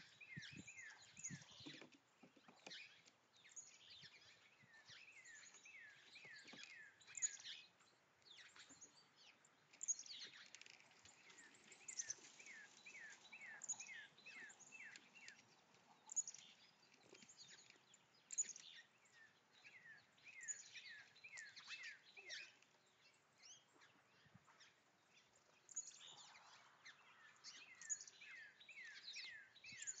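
Faint songbird calls: a quick run of short, downward-slurred whistled notes, repeated every few seconds, with scattered higher chirps between the runs.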